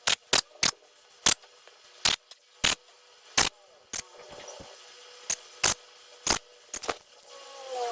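A series of sharp, irregular clicks, one or two a second, and near the end a short pitched sound falling in pitch.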